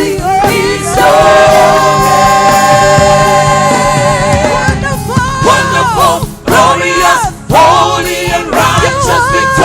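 Gospel worship singing with band accompaniment: a long held sung note over the backing for a few seconds, then shorter gliding vocal phrases.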